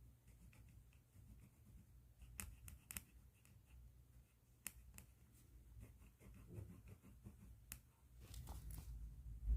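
Faint handling of a pen in a plastic bag: a few scattered sharp clicks, then a brief crinkle near the end.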